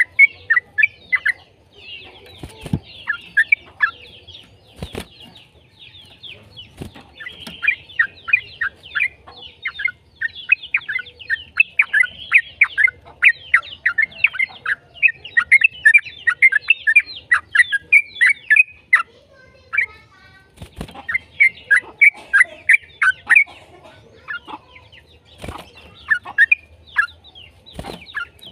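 Yellow-vented bulbul (trucukan) singing a long, fast chattering song of quick falling notes, with a short break about two-thirds through. A few sharp knocks sound here and there.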